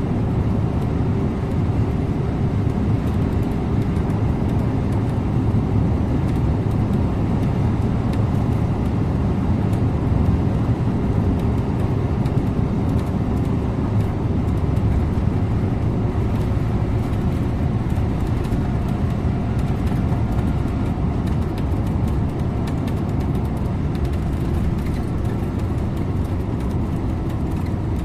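Scania InterLink bus driving at a steady pace: engine running with road and tyre noise, even throughout.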